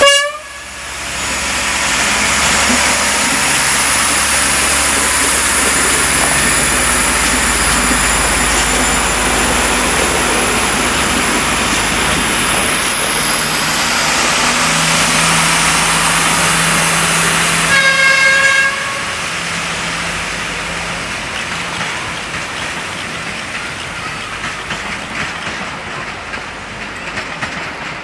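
Passenger train passing close by: a steady rush of wheels on rail, with a short horn toot at the very start and another about eighteen seconds in. After the second toot the noise drops and slowly fades.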